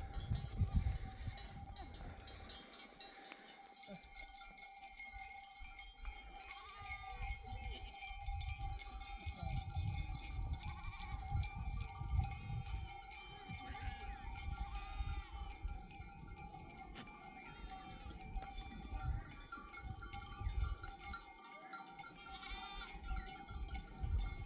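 Sheep bells ringing and jingling continuously as a flock of sheep moves, with a few bleats. A low rumble comes and goes underneath.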